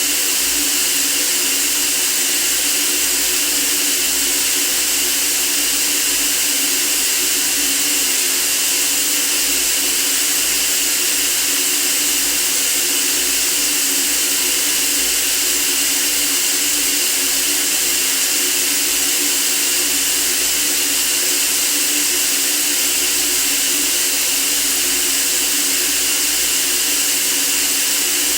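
Continuous white noise for sleep: an even, unchanging hiss strongest in the high range, with a faint steady hum underneath.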